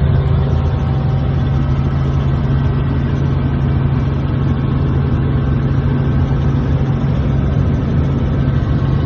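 Helicopter in flight: a steady, loud drone of engine and rotors with a strong low hum that holds even throughout.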